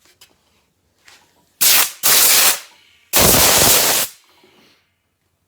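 Three loud bursts of rushing hiss, the last and longest lasting about a second, with faint rubbing before and after.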